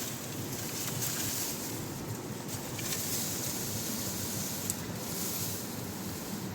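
Steady rush of a fast mountain river, with a few faint small clicks.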